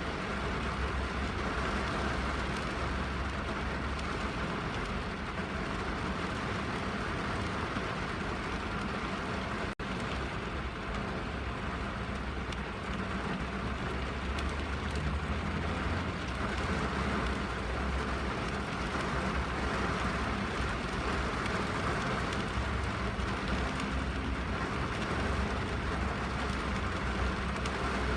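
Steady rain on a car's roof and windows, heard from inside the cabin, with a low rumble beneath it. The sound dips for an instant about ten seconds in.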